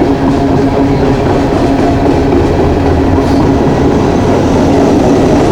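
Loaded coal cars of a long freight train rolling past, a steady rumble and clatter of wheels on rail.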